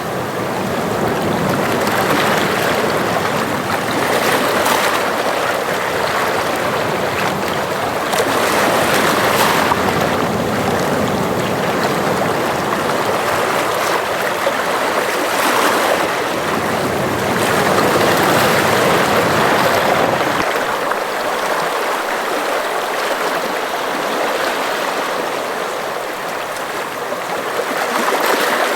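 Sea waves washing against the shore: a steady rush of water that swells and eases every few seconds.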